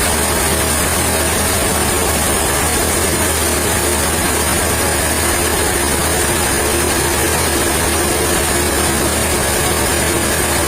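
Sawmill machinery running steadily, an even engine-like drone that neither rises nor falls.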